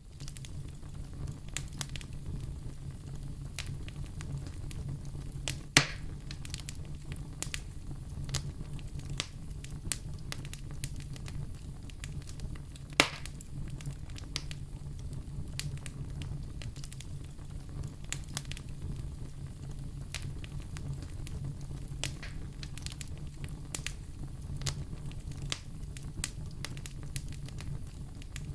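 Wood fire in a fireplace crackling, with scattered small pops over a steady low rumble. Two louder pops stand out, about six and thirteen seconds in.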